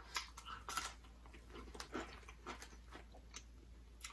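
Quiet chewing and biting of thin-crust pizza by two people, with scattered soft mouth clicks and small crust crunches, a few louder ones in the first second.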